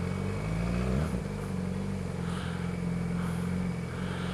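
Engine of a 2012 Yamaha R6, an inline-four sport bike, running steadily, with a brief rise and fall in pitch about a second in.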